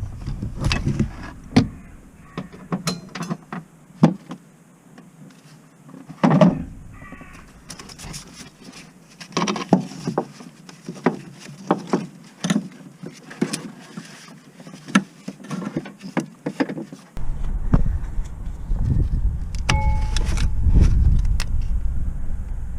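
A string of irregular sharp clicks and knocks, like hard objects being handled. From about three quarters of the way through, a steady low rumble sets in under them.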